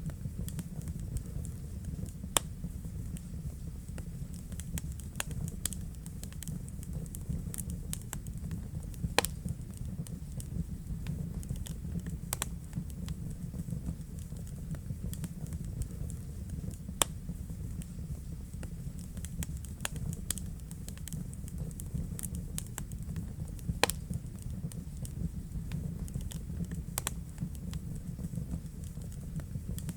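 Wood fire burning in a fireplace, crackling and popping at irregular moments over a steady low rumble of the flames, with a handful of louder sharp pops.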